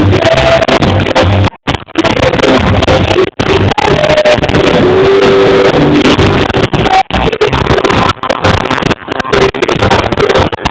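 Live reggae band music recorded through a phone microphone, harsh and distorted, that cuts out suddenly for a moment several times.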